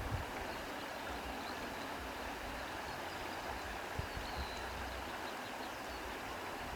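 Steady outdoor ambience of sea and reeds rustling in the wind, an even hiss with no distinct events.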